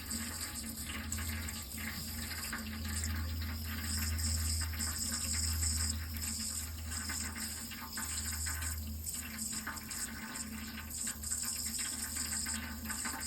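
Water running steadily, a continuous even rush.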